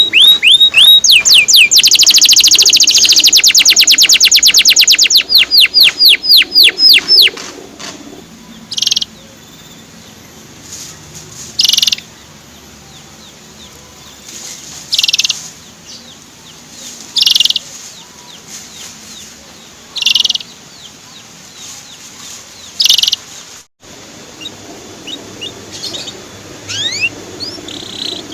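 Male canary singing: a loud, fast trill of repeated sweeping notes for about seven seconds. Then short separate chirps every two to three seconds, with a few faint quick notes near the end.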